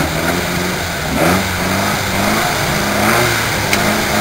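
Engine of a small Lotus Seven-type open sports car held at the start line, idling and blipped so that the revs swell up and fall back several times. There is a short click near the end.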